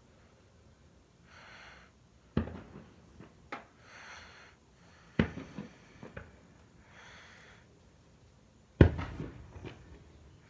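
Three sharp firework bangs, each with a short echoing tail, the last one near the end the loudest. Between them, soft breathing close to the microphone comes and goes about every three seconds.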